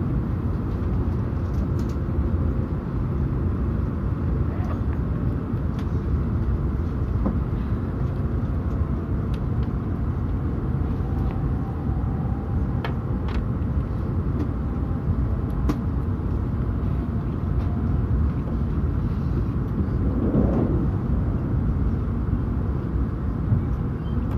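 Steady low rumble and rush of a Hayabusa shinkansen running at speed on the Tohoku Shinkansen, heard inside the passenger cabin, with a few faint ticks.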